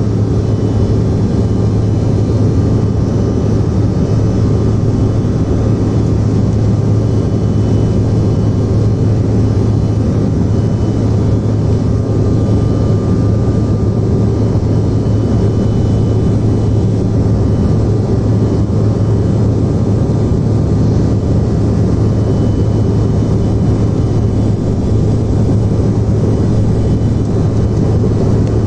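Steady cabin noise inside a Bombardier CRJ-900 from its rear-mounted General Electric CF34 turbofans: an even roar with a strong low hum, holding constant.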